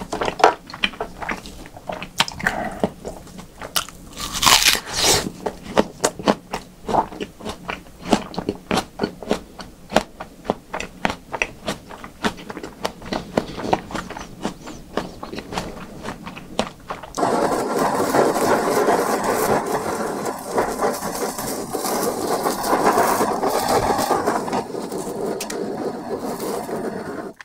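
Close-miked chewing of raw beef: many quick, wet, smacking mouth clicks. About two-thirds of the way in, this gives way abruptly to the steady hiss of a kitchen blowtorch flame searing slices of beef.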